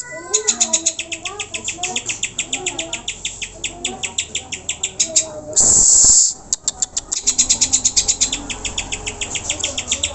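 Cucak hijau (green leafbird) song played as a lure: long runs of fast, high-pitched ticking chatter, about ten notes a second, over softer warbling notes. A loud harsh rasp lasting under a second breaks in about halfway.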